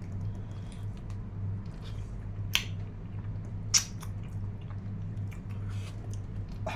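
Close-miked chewing and biting of roast mutton, with wet mouth clicks and two sharper, louder clicks about two and a half and four seconds in. A steady low hum runs underneath.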